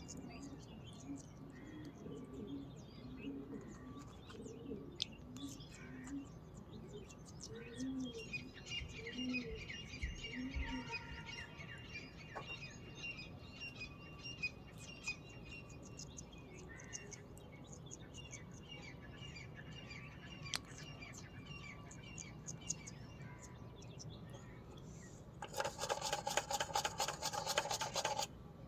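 Birds chirping and calling, with a run of low, short notes in the first ten seconds or so. A loud, rasping burst lasting about three seconds comes near the end.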